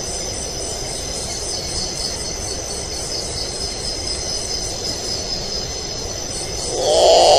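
A steady high-pitched chirring trill, pulsing about two to three times a second over a low hiss, typical of an insect chorus such as crickets. Near the end a louder, lower call begins.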